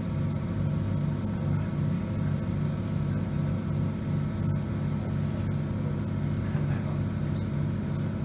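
Electric train heard from the driver's cab: a steady low hum with a rapid, even pulsing throb, and faint steady tones above it.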